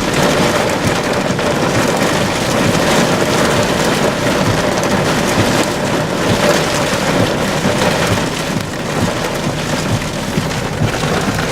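Heavy rain falling hard and steadily, from a supercell whose tornado is becoming rain-wrapped.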